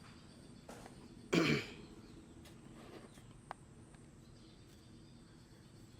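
A single short, rough vocal sound with a falling pitch about a second and a half in, over faint background with a few small clicks.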